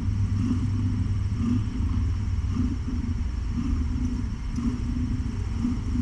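Pregnant cat purring, picked up from against her belly: a steady low rumble that swells and eases about twice a second.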